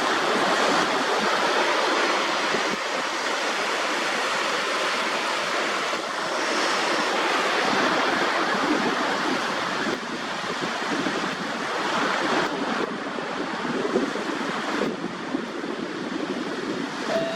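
Small sea waves washing in on the shore close by: a steady rushing hiss that swells and eases, dipping about ten seconds in.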